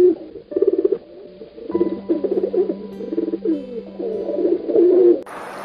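Birds cooing: low, wavering, warbling calls in several bouts, over a steady low drone. Near the end it cuts off suddenly to a steady hiss.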